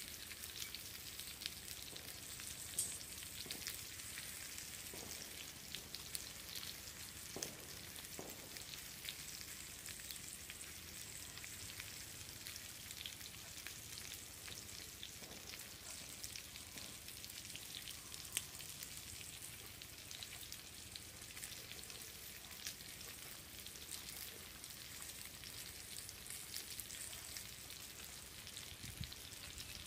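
Faint, steady sizzling and crackling of food frying in hot oil in a pan over a fire.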